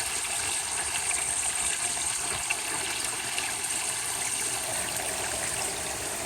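Steady running and trickling water in a garden pond, with a steady high-pitched hiss over it.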